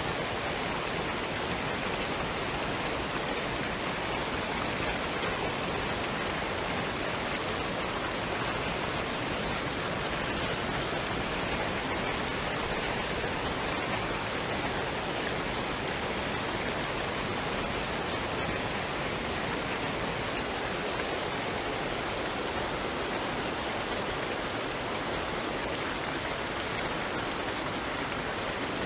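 Waterfall and stream water rushing steadily, an even wash of noise with no changes.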